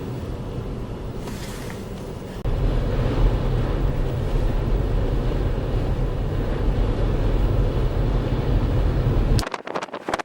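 Strong blizzard wind buffeting the microphone: a heavy low rumble with a steady hiss above it. It gets louder about two and a half seconds in and cuts off abruptly near the end.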